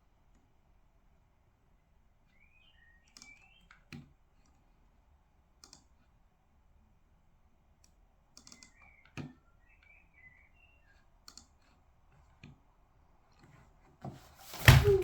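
Sparse, scattered clicks and taps of desk work, like keys and small objects on a desk, with a few faint chirps in between. A loud clatter or thump near the end.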